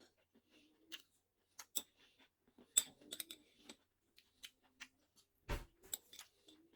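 Close-miked chewing of crunchy fast food: irregular crisp crunches and clicks of teeth biting and food breaking, with a duller thump about five and a half seconds in.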